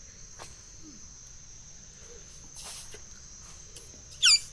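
Insects, crickets or cicadas, keep up a steady high chirring drone. About four seconds in, a loud, short, sweeping squeal cuts in over it.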